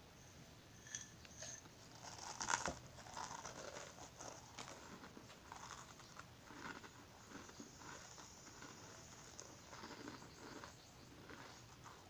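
Crushed crackers being crunched and chewed in the mouth: a burst of crisp crunches about two and a half seconds in, then softer irregular chewing crunches.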